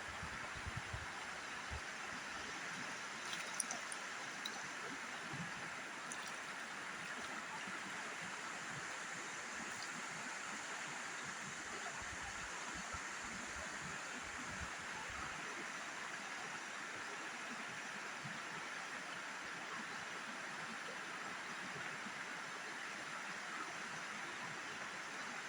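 River water flowing with a steady, even rush, with a few faint clicks about three and a half seconds in.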